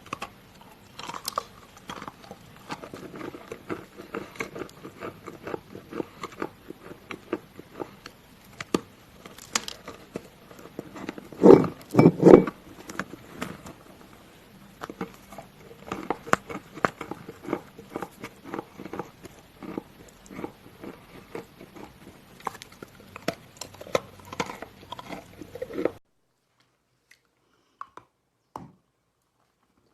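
A person biting and chewing a round piece of chalk close up: a steady run of small, crisp crunches, with the loudest crunches about twelve seconds in. Near the end it thins to a few faint crunches.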